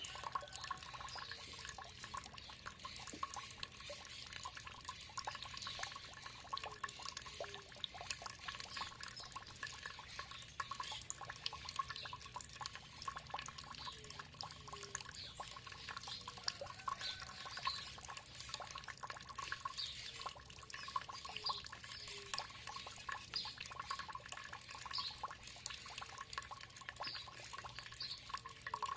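Water trickling and dripping steadily, with birds chirping short calls throughout and a short low note recurring every second or two.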